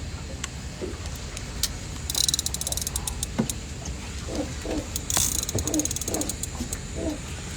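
Fishing reel clicking rapidly in two short runs, about two seconds and five seconds in, with scattered single clicks, over a steady low rumble.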